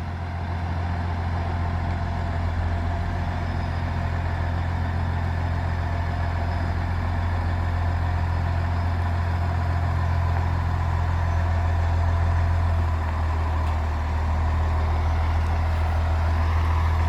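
A vehicle engine running steadily at low revs, a deep, even hum, with a slight change in tone about 13 seconds in.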